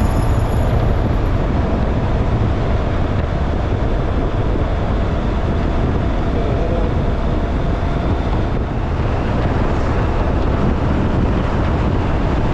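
Steady wind rush on the microphone over a low motorcycle engine and road drone, recorded while riding at speed.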